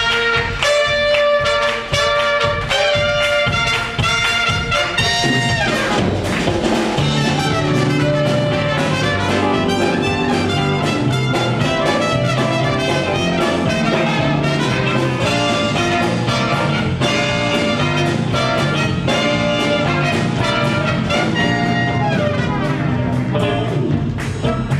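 Live band playing an instrumental led by a horn section, trumpet and trombone, over a steady drumbeat; the bass and fuller band come in about six seconds in.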